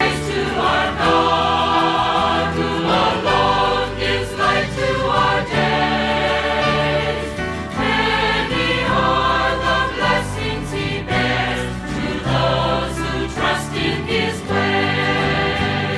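Christian worship music: a choir singing sustained notes over instrumental accompaniment, the song's introduction before the sung verse.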